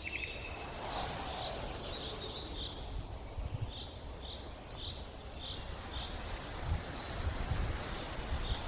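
Tropical forest ambience: birds chirping and calling, with one bird giving a run of five short, evenly spaced notes midway, over a steady high hiss of insects.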